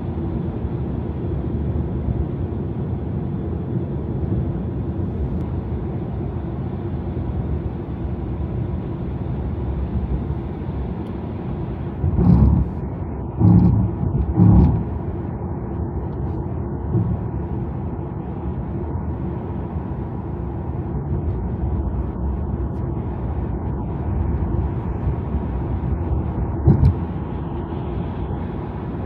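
Steady tyre and road noise from a Tesla electric car cruising on a highway, with a few brief thumps about halfway through and again near the end.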